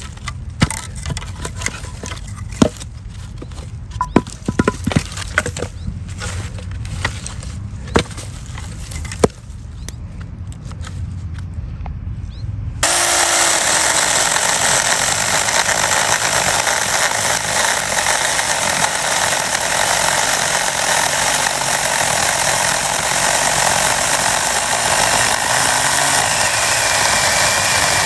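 Saker mini cordless electric chainsaw cutting a log at the limit of its 4-inch capacity. For the first half there is a low rumble with scattered sharp clicks and snaps. About halfway in, a loud, steady cutting noise starts suddenly and holds.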